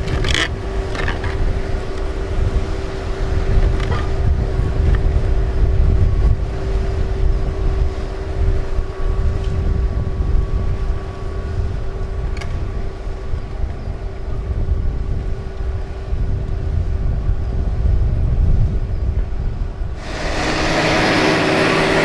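A machine's engine running steadily with a low rumble and a steady hum, with a few light knocks; near the end a loud hissing noise comes in for about two seconds.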